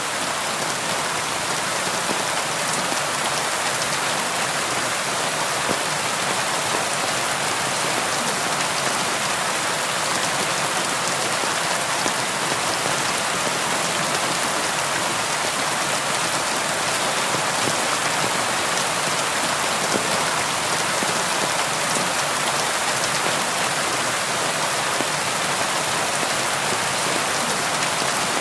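Steady rain falling on a window, an even hiss with faint scattered drop ticks.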